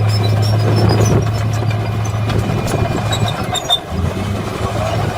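Diesel engine of a heavy earthmoving machine running steadily with a low, even drone.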